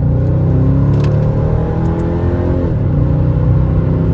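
Mercedes E55 AMG's supercharged 5.4-litre V8 pulling under acceleration, its pitch rising, then dropping suddenly about two and a half seconds in as the five-speed automatic upshifts.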